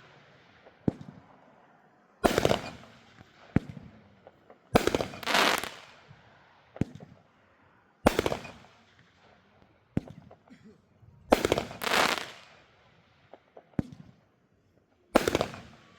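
Fireworks going off: a loud bang about every three seconds, twice as a quick double bang, with smaller pops and crackles between them.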